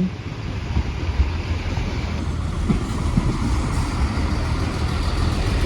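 Chiltern Railways class 165 diesel multiple unit running into the platform, its diesel engines giving a steady low rumble under the noise of the moving train.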